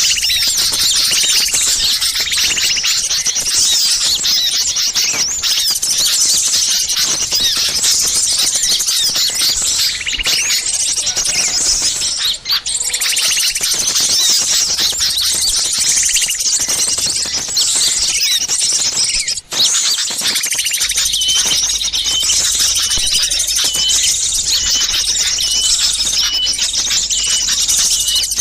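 Bird-lure recording of many small songbirds chirping and calling at once in a noisy, agitated chorus, the kind played to draw wild birds in. The chorus dips briefly twice, and from about two-thirds of the way through one bird repeats a short high note at an even pace.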